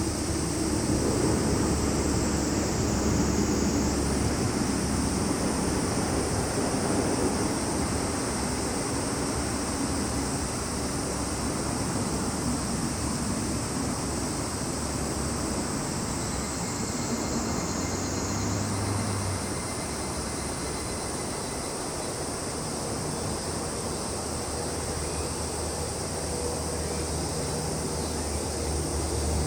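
Summer insects shrilling steadily in a high, thin band whose pitch sags slowly and then snaps back up, twice. A low rumble runs underneath, strongest in the first several seconds.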